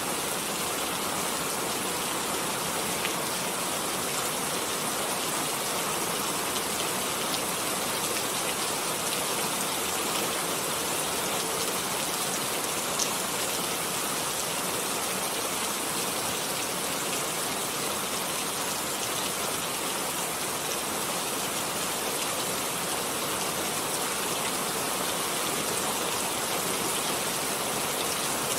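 Steady rain falling, an even hiss with one sharp tick about halfway through.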